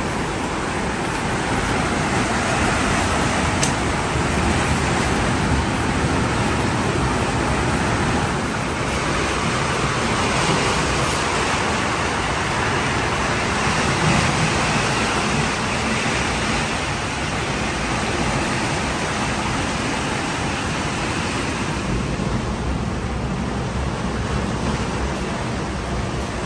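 Sea surf and wind: a steady rushing noise that swells and eases over several seconds.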